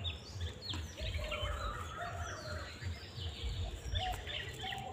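Birds chirping and calling repeatedly, many short falling chirps, over a low steady rumble.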